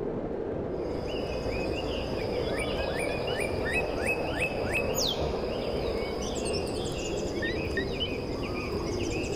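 Birds singing in repeated short falling chirps over a steady rushing outdoor background noise, with a thin, steady high tone that comes in about a second in.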